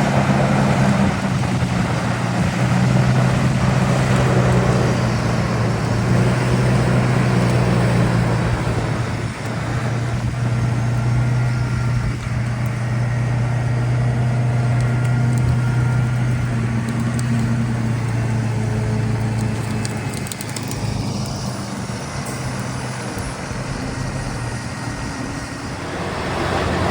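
A large, roughly 800-horsepower wood chipper's engine runs steadily under load as it chips wood. Its hum is loud and even, with a brief dip about nine seconds in. It drops to a lower level about twenty seconds in.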